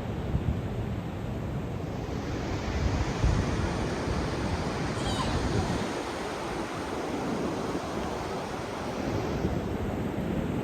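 Ocean surf washing steadily on the beach, with wind buffeting the microphone in gusts.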